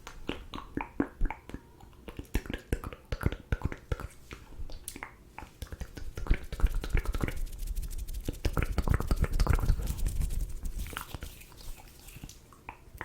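Close-miked ASMR mouth sounds: many irregular wet clicks and pops from the lips and tongue. A denser, lower wet rumble comes about two thirds of the way through, and it thins out near the end.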